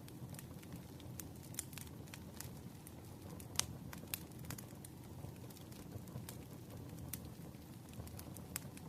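Fire crackling with irregular sharp pops, the loudest about three and a half seconds in, over a steady rushing of rain.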